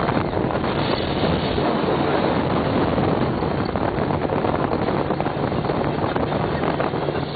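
Fountain powerboat under way, its engine running steadily with wind buffeting the microphone.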